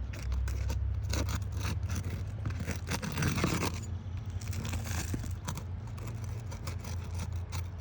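Crowbar scraping and clicking as it is worked under asphalt roof shingles, with a longer, louder scrape about three seconds in.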